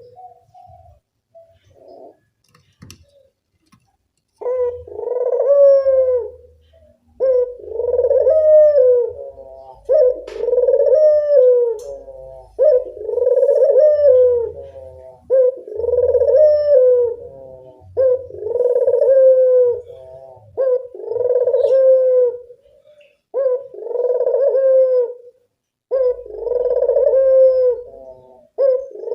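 Local puter dove cooing over and over, each coo rising and falling in pitch, one roughly every two and a half seconds after a short pause at the start. This is a lure call meant to draw other puter doves to answer.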